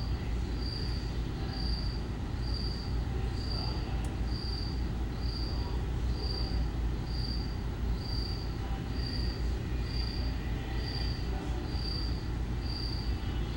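A high-pitched chirp repeating steadily about twice a second over a low, steady rumble.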